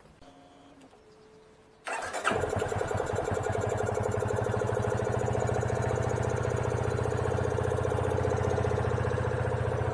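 A vehicle engine cranks briefly and starts about two seconds in, then settles into a steady, even idle. The engine has just been treated with KURE Engine Conditioner, a throttle-body and intake cleaner.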